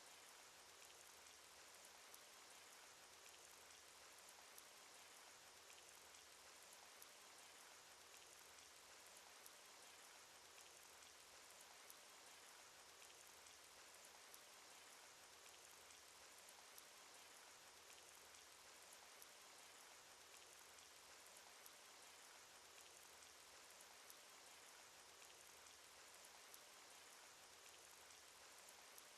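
Faint, steady rain sound effect from a cartoon: soft hiss of falling rain with many small drop ticks.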